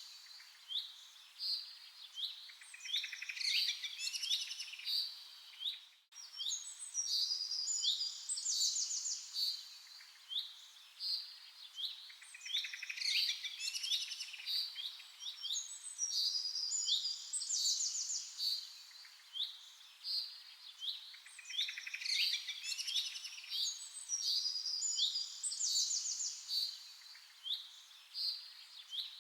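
Several small birds chirping and trilling together in quick, high-pitched phrases, with a brief break about six seconds in.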